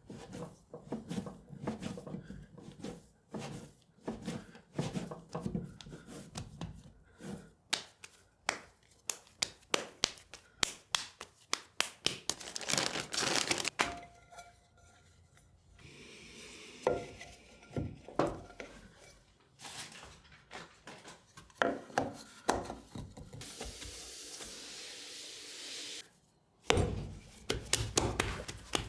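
Porcelain clay and tools being handled at a pottery wheel: a busy run of knocks, taps and rubbing, with a few seconds of steady hiss a little over two-thirds through.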